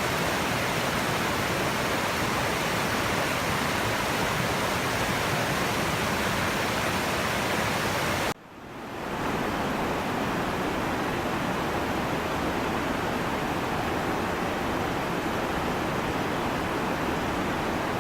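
Steady rushing roar of a waterfall. About eight seconds in it cuts out suddenly and swells back within a second, a little duller, with less hiss.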